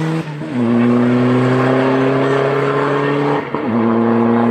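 Race car engine under full throttle accelerating up a hillclimb, its pitch climbing steadily and dropping sharply as it shifts up twice, about a third of a second in and again about three and a half seconds in.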